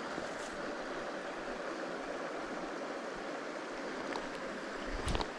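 Shallow stream water flowing steadily, with a brief low bump near the end.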